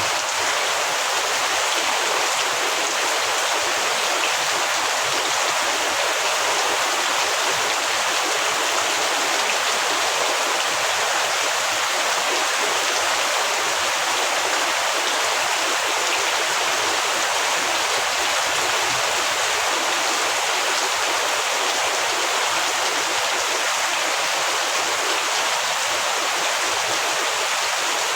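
Heavy rain falling in a steady, even hiss with no breaks or separate drops standing out.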